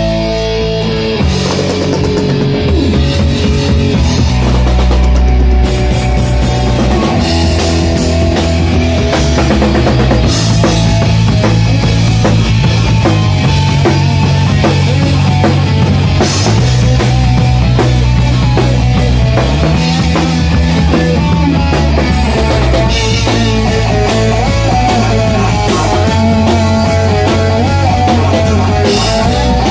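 Rock band playing an instrumental passage with no singing: a drum kit with cymbals driving a steady beat under guitar.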